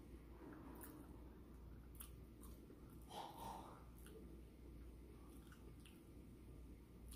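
Faint close-up chewing of food with the mouth closed, with soft wet mouth clicks and a brief louder mouth sound about three seconds in.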